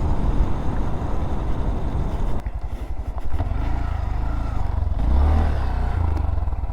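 Small motorcycle engine running while being ridden. About two and a half seconds in the engine note drops away, then rises and falls several times as the throttle is opened and closed.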